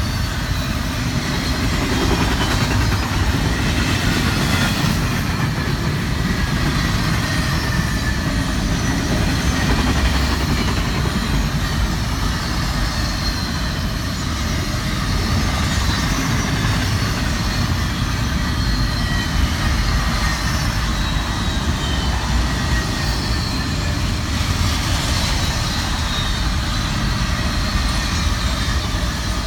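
A train rolling past with a steady rumble of wheels on rail, and faint high-pitched wheel squeal wavering over it.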